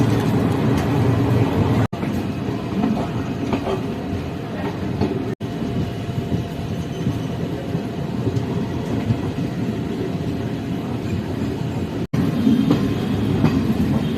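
Jan Shatabdi Express passenger train running on the rails: a steady low rumble of the carriages, broken by three brief dropouts where the recording cuts.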